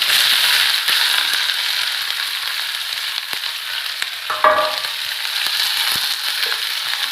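Chopped onion sizzling in hot oil with ajwain (carom seeds) in a pan, just tipped in: a steady frying hiss, dotted with small pops, that slowly eases. A brief ringing clink from the pan about four and a half seconds in is the loudest moment.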